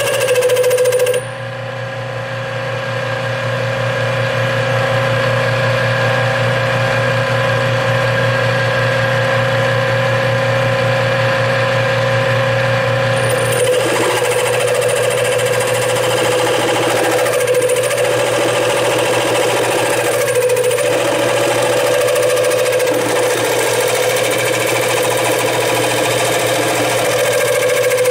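Metal lathe running steadily with a rattling cutting noise as the tool works an aluminum workpiece. The cutting noise drops off about a second in and comes back around halfway.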